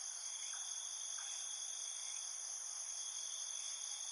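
Steady high-pitched insect chorus, held at several constant pitches without a break.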